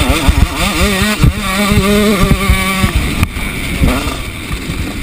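Motocross bike engine racing along a dirt track, heard from its own handlebar camera: its pitch climbs and drops back again and again as the rider works the throttle and gears. There is a single sharp knock a little past halfway.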